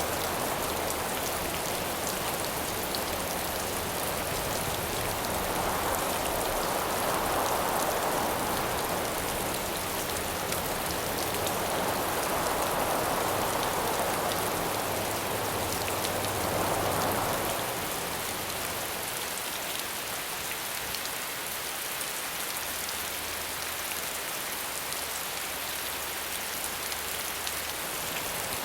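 Steady rain falling, with wind howling in slow swells that rise and fade every few seconds. The gusts ease off in the second half.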